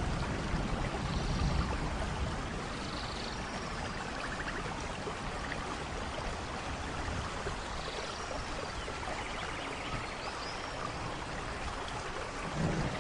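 Rainforest thunderstorm: steady rain, with a low thunder rumble dying away in the first couple of seconds and another rumble building near the end. Faint high chirps sound over the rain now and then.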